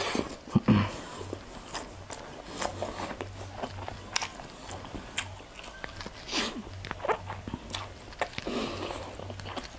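Close-miked eating by hand: chewing and mouth sounds, heard as scattered short clicks and smacks at irregular times, over a faint low hum.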